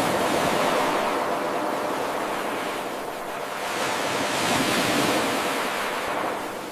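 Ocean waves: a steady hiss of surf that swells, eases about three seconds in, swells again and fades near the end.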